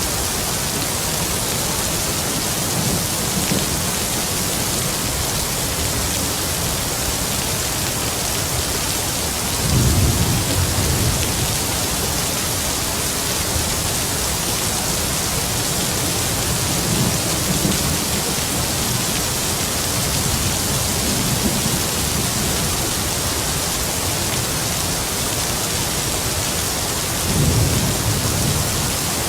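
Heavy rain falling in a steady hiss, with distant thunder rumbling low several times. The loudest rumbles come about ten seconds in and near the end.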